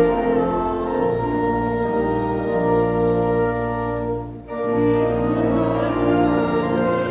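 Church organ playing slow, sustained chords as offertory music, with a brief break between phrases about four and a half seconds in.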